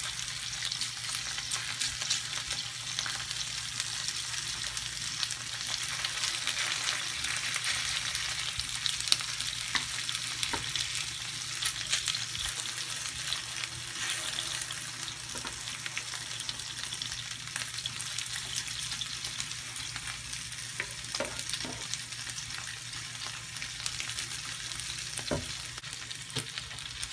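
Sauce-glazed chicken thighs sizzling and crackling steadily in a hot stovetop grill pan, with a few short clicks in the second half.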